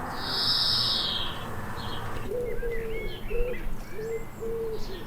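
Garden birdsong: a high buzzy trill from a small bird at the start, then from about two seconds in a pigeon cooing in a repeated low phrase, with faint chirps of small birds.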